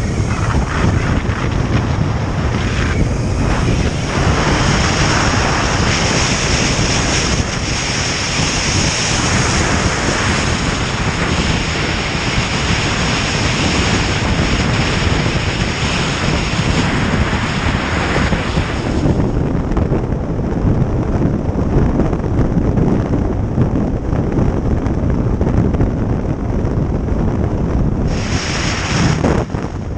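Wind rushing over the microphone on a moving motorcycle, with engine and road noise underneath. The high hiss thins out about two-thirds of the way through and briefly comes back near the end.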